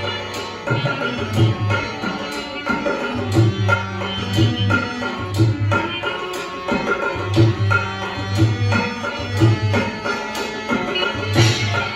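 Rajasthani folk music: a hand drum beats a steady pattern of low strokes under a sustained melodic instrument line, with occasional sharp accent hits.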